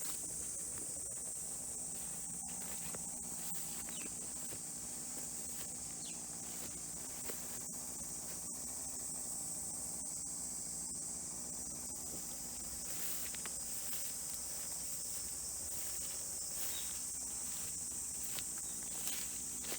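Steady high-pitched insect chorus, cicadas in summer, with scattered small clicks and rustles.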